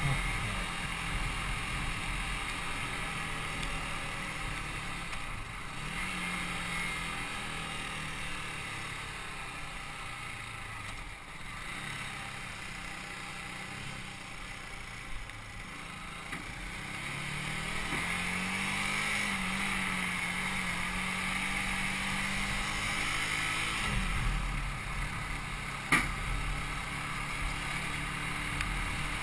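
Yamaha YZF-R125's 125cc single-cylinder four-stroke engine running under way, with wind rush. Its revs wander, climbing about two-thirds of the way through and dropping soon after, and a single sharp click comes near the end.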